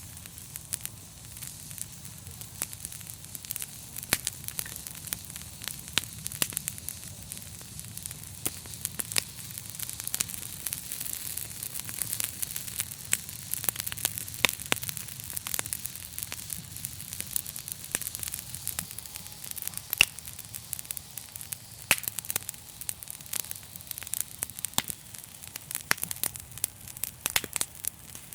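Fire crackling: a steady hiss with dense, irregular sharp pops and snaps, a few louder than the rest, over a low steady rumble.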